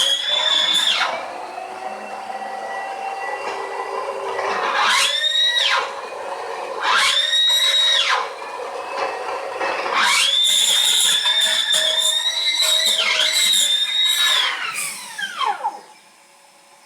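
Dyson DC17 upright vacuum cleaner running with a loud, high-pitched scream that cuts in and out several times, with quieter running in between. Near the end the scream glides down in pitch and the machine winds down. The scream is the sign of a failing brushbar motor.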